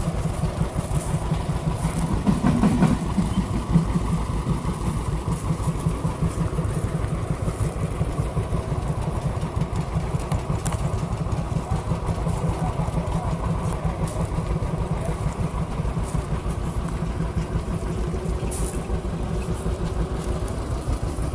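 An engine running steadily, with a fast, even beat of firing strokes and a louder stretch about two to four seconds in.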